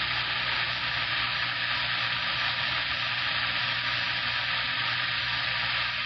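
CB radio static: a steady, loud hiss from the receiver's speaker while a noisy, wordless signal holds the channel open. It fades away near the end.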